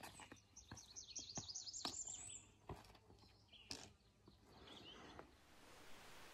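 A small songbird singing a quick run of about ten high, repeated notes lasting roughly two seconds, then a short high call a few seconds later. The song is faint, with a few soft knocks underneath.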